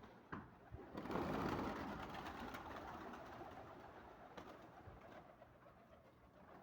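Birds cooing softly. About a second in, a louder rushing noise swells up and then fades slowly.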